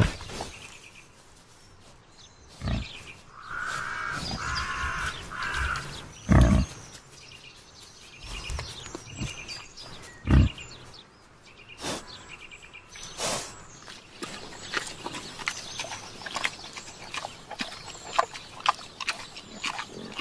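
Wild boar foraging for acorns: low grunts and scattered crunching and cracking as they feed, with three short high calls about four to six seconds in and birds chirping faintly.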